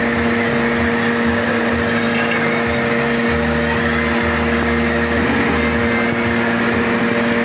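Manual metal lathe running steadily, a constant machine hum with a steady pitched drone.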